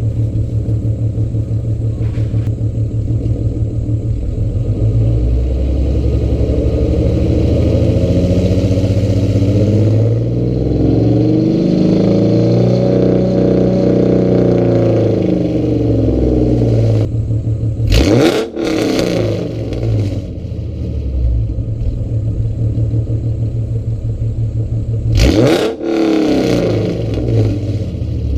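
Ford Mustang 4.0 V6 engine heard through its exhaust, running at a steady idle, then slowly rising and falling in engine speed through the middle. Two quick, sharp revs follow in the last third.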